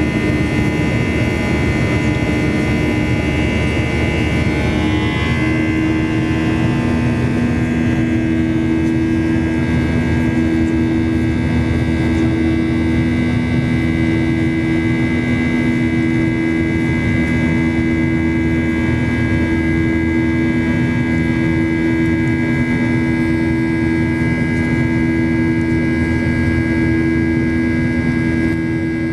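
Boeing 737-800's CFM56-7B jet engines running steadily, heard inside the passenger cabin as a loud rush with a steady whine. The whine's pitch shifts and glides about five seconds in, then holds steady.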